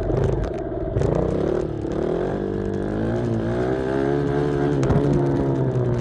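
Small off-road vehicle engine being ridden, its revs rising and falling several times as the throttle is worked.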